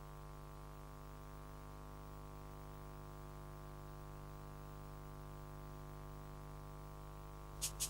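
Faint, steady electronic drone of several held tones from a synthesizer, opening the film's music. Near the end, a fast ticking beat of about five clicks a second comes in.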